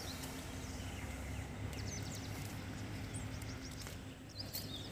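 Small birds chirping: many short, quick, high chirps scattered throughout, over a steady low rumble.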